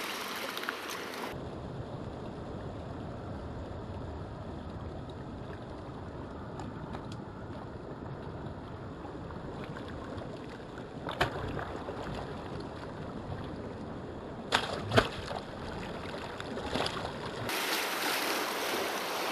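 Muffled water noise, with a few sharp splashes or knocks about eleven and fifteen seconds in. Waves and wind on the microphone come back brighter near the end.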